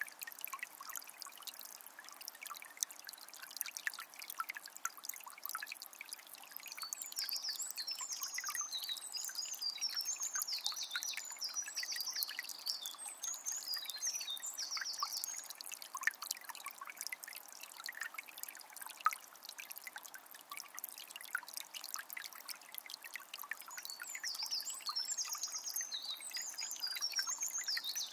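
Forest stream trickling and splashing steadily over stones. A songbird sings in fast, chirpy high phrases from about a quarter of the way in to past the middle, and again near the end.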